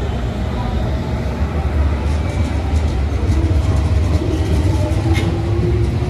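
Train moving through a railway station: a steady low rumble that grows slightly louder, with faint light clicks from about two seconds in.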